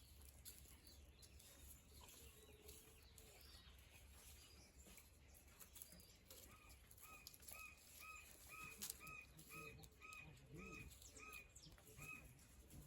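Faint bird call: a run of about a dozen short, even notes at about two a second, starting about halfway through, over a steady low background hum.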